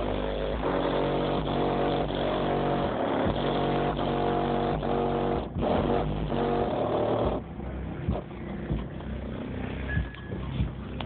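Deep subwoofer bass from a car stereo playing loud, stepping notes that set the trunk rattling. The bass cuts out about seven seconds in, leaving scattered clicks and knocks.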